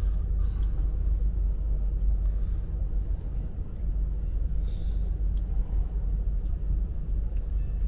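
Steady low rumble of a passenger train heard from inside the carriage as it runs slowly into a station, with a few faint ticks.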